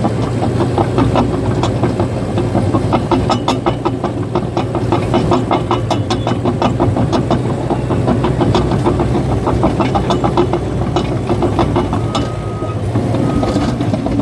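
Cat bulldozer's diesel engine running steadily while the steel tracks clank and squeak in a rapid clatter. Near the end the reverse alarm starts beeping at a steady pace.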